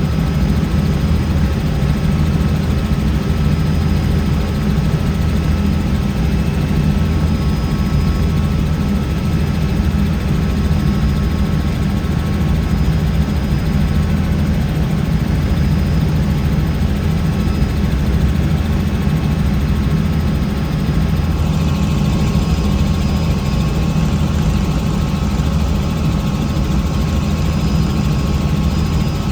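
Helicopter running steadily, a loud continuous drone heaviest in the low end with faint steady whines above it; the higher whines shift slightly about twenty seconds in.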